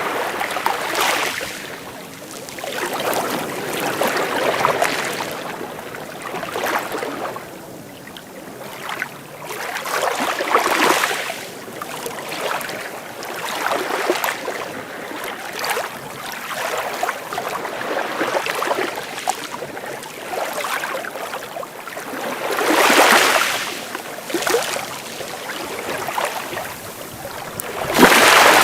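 Sea waves breaking and washing in, the rush rising and falling every two to three seconds, with the two loudest breaks near the end.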